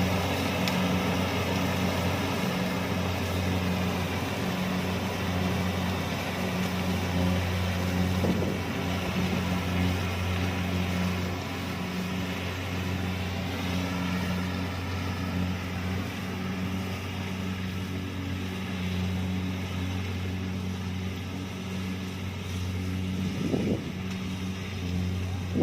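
Kubota DC-70 Plus combine harvester's diesel engine and threshing machinery running steadily under load while harvesting rice, with a couple of brief bumps near the end.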